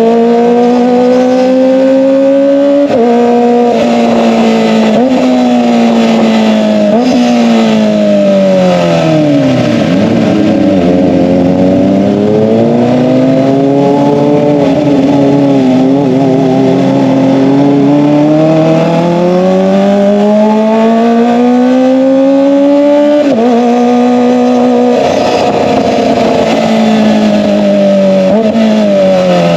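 Kawasaki ZX-25R's 250 cc inline-four running at high revs through an SC-Project exhaust. The engine pitch climbs and jumps abruptly at gear changes several times, sinks away in a long slowdown near the middle, then climbs steadily again before more shifts.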